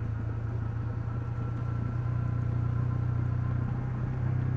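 Honda CL250's single-cylinder engine running steadily, its note growing a little louder about two seconds in.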